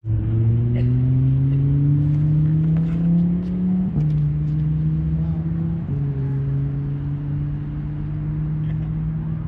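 A motor engine accelerating, its pitch rising slowly for about four seconds, then dropping twice, the way an engine sounds as the vehicle shifts up through gears, before holding a steady pitch.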